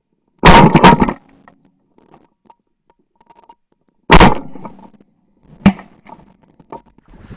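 A few loud, sharp knocks: a quick cluster about half a second in, a single heavy one about four seconds in, and a smaller one shortly after, with faint clicks between.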